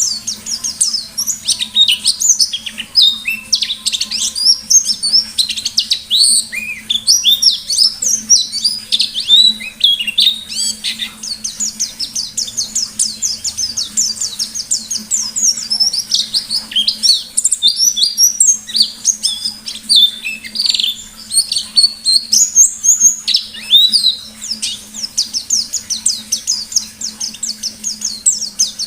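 White-eye (pleci) singing a long, rapid, unbroken run of high chirps and quick sweeping notes: the busy wild-style 'ngalas' song that keepers play to set their own white-eyes singing.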